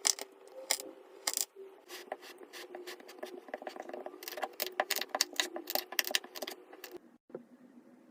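Kinetic sand being cut and crushed: a run of crisp crackles and clicks that grows denser past the middle and stops abruptly about seven seconds in, over a faint steady hum.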